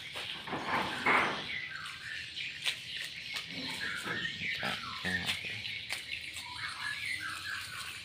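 Birds chirping: many short rising and falling calls, busiest in the second half, over a steady high hiss, with a few scattered clicks.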